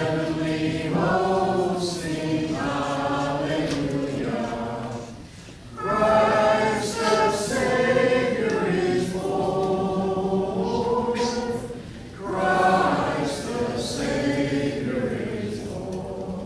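Congregation singing a Christmas carol together a cappella, in long sung phrases with two short pauses for breath.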